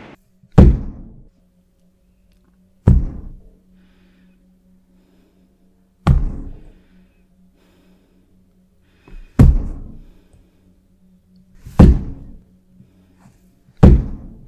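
Six loud, sharp thuds at uneven intervals of two to three seconds, each dying away within a second, over a steady low hum.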